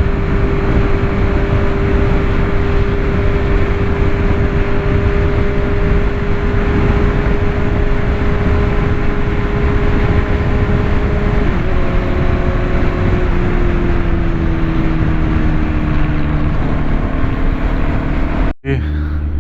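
Motorcycle engine at a steady highway cruise under heavy wind rush. About halfway through, the engine note steps down and keeps falling gradually as the rider eases off and slows. The sound cuts out briefly near the end.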